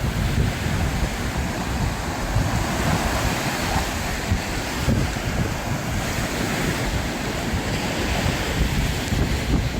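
Strong sea waves breaking and rushing in the surf, with wind buffeting the microphone.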